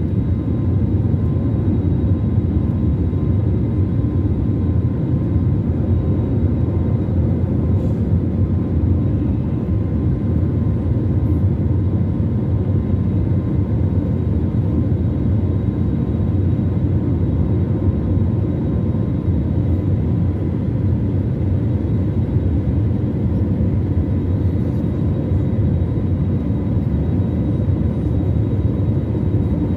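Airliner cabin noise: a steady low roar of engines and airflow, with a faint high whine on top, holding level with no change in pitch.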